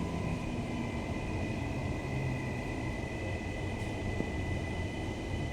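Inside a Queensland Rail NGR electric multiple unit, the Bombardier-built six-car train, as it slows into a station: a steady low rumble of the car with a steady high electric whine over it.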